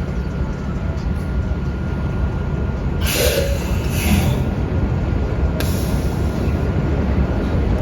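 Transit bus running with a steady low engine rumble. There are two short bursts of air hiss about three and four seconds in, and a sharper hiss a little later, typical of a bus's air brakes or air system.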